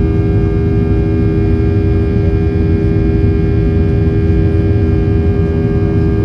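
Boeing 737 jet engines heard from inside the cabin while climbing out after take-off: a steady low rumble with a constant whine made of several unchanging tones.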